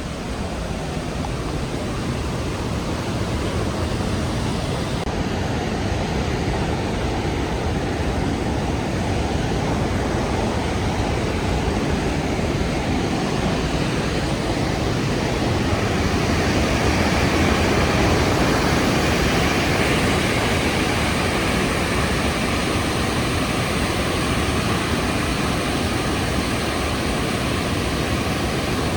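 Rhine Falls waterfall: a loud, steady rushing of water, growing slightly louder over the first few seconds and peaking about two-thirds of the way through.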